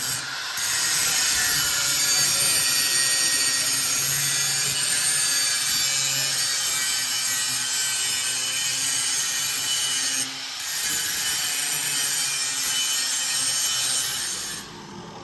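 Power tool running steadily with a harsh hiss, stopping briefly about ten seconds in, then running on until it cuts off near the end.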